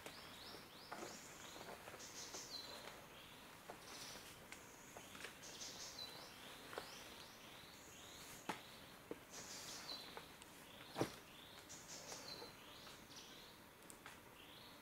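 Wild birds singing in forest: one bird repeats a short phrase every couple of seconds, a brief high whistle followed by a quick run of notes, over scattered chirps. A few sharp clicks break in, the loudest about eleven seconds in.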